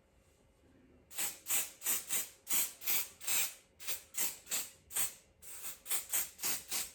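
Lace-melting wig hold spray squirted in a quick series of short hissing bursts, about three a second, starting about a second in.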